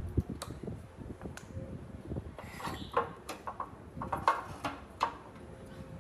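Irregular sharp knocks and clinks, like parts being handled, with the loudest strikes about three and four seconds in.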